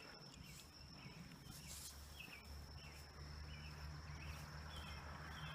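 Faint outdoor ambience: a small bird chirping repeatedly, short high chirps about twice a second, over a steady faint high tone and a low rumble.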